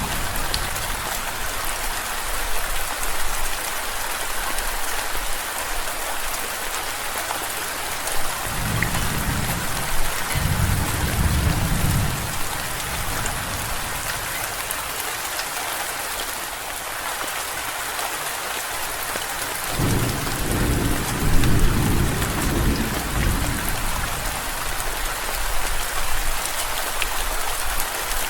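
Steady rain hiss throughout, with two low rolls of thunder rumbling under it, one about a third of the way in and another about two-thirds in.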